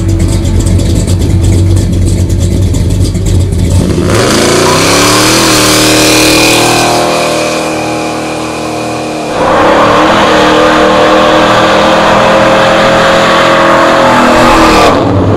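Chevrolet Chevelle SS's V8 doing a burnout. It runs with a pulsing beat at low revs, is revved up hard about four seconds in as the rear tyres spin with a loud rushing squeal, eases off briefly around eight seconds, then is brought back up and held at high revs until it cuts off just before the end.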